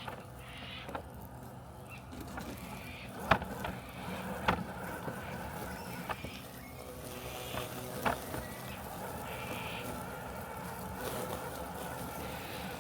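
Robotic lawn mower running with a steady mechanical hum and a thin whine, broken by several sharp clicks or knocks, the loudest about three seconds in.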